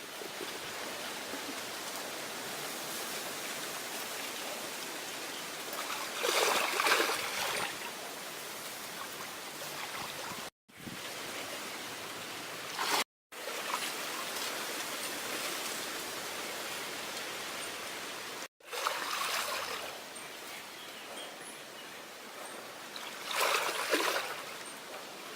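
Water running steadily over a homemade waterfall, with two louder rushes, one about six seconds in and one near the end. The sound drops out abruptly three times.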